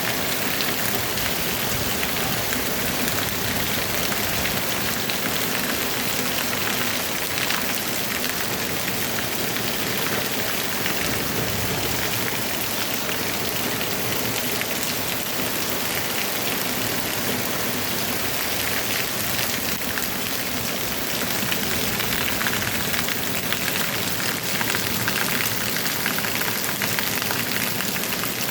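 Heavy rain falling steadily, a dense unbroken hiss of drops.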